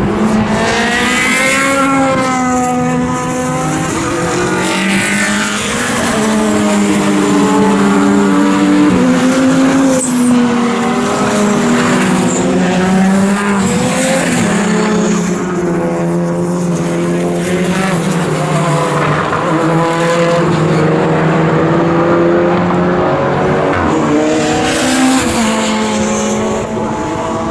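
Racing cars running at speed on a circuit, several in succession, their engine notes rising and falling as they accelerate, shift gears and pass.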